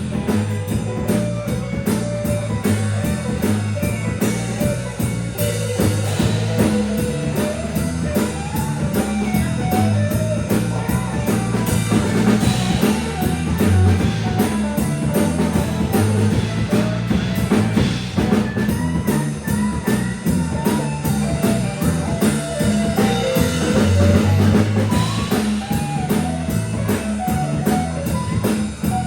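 Instrumental break of an up-tempo rhythm-and-blues song: a band plays a steady beat under a melodic lead line, with no singing.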